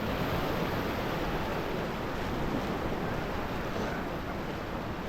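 Steady rush of river water around a raft, mixed with wind buffeting the microphone.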